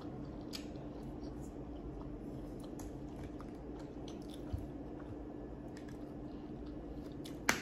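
A person chewing tacos, with soft wet mouth clicks, over a steady low hum. A sharp click sounds near the end.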